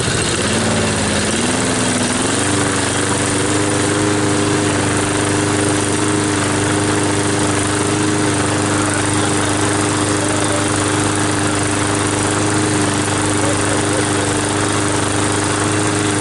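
Predator 173cc four-stroke engine on a push lawn mower running. It speeds up in a couple of steps over the first two seconds or so as the throttle is opened, then holds a steady mid-throttle speed.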